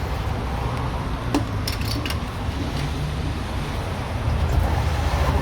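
Steady low rumble of a car running, with a sharp click about a second and a half in and a few light metallic clinks just after it; the rumble grows a little louder near the end.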